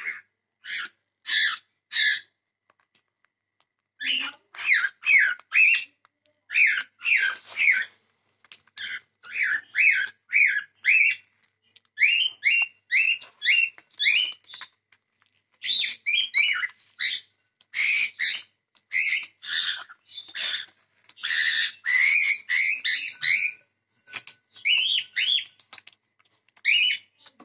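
Cockatiels calling: runs of short, upward-sweeping chirps in quick succession, with brief pauses between the runs.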